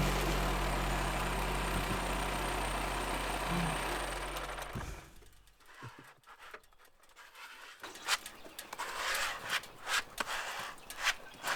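Portable sawmill's gasoline engine running steadily, then stopping about five seconds in. After a few seconds of quiet come scattered knocks and scuffs.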